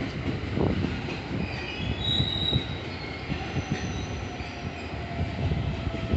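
Train rolling along the rails with a low rumble, its steel wheels squealing in thin high tones for a few seconds in the middle.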